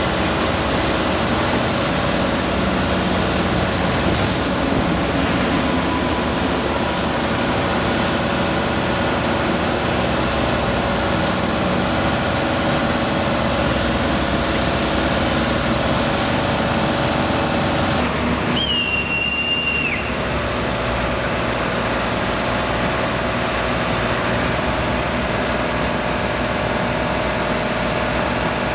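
Engines running steadily. The sound changes about 18 seconds in, and a short high tone sounds once for about a second and a half before the engine sound carries on.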